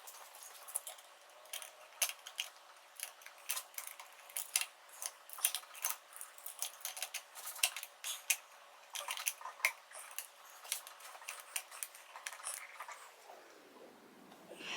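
Irregular light metallic clicks and clinks of small metal parts and hand tools being handled, several a second at times.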